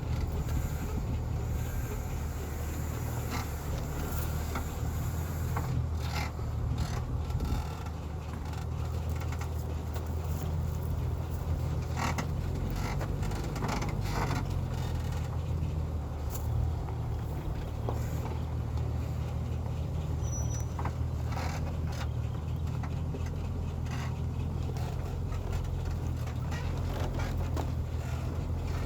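Heavy timber truck's engine running steadily at a low rumble, with scattered sharp knocks and clanks.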